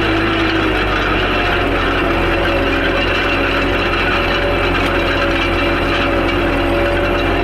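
Tractor engine running steadily, its pitch dropping slightly about a second and a half in.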